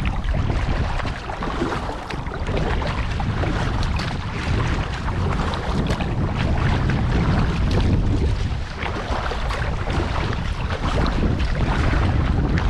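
Wind buffeting the microphone in a heavy, uneven rumble, with water splashing around an inflatable kayak on the move.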